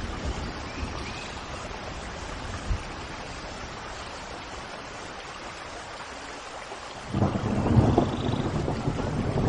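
Steady rain with a few faint bird chirps; about seven seconds in, a loud low rumble of thunder sets in and keeps going.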